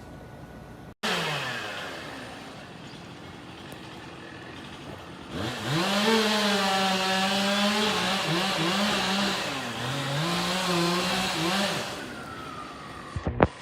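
Chainsaw revved up about five seconds in and held at high speed for some six seconds, its pitch dipping several times as the chain bogs in the wood, then throttled back. Just before, about a second in, a burst of engine sound fades away with a falling pitch.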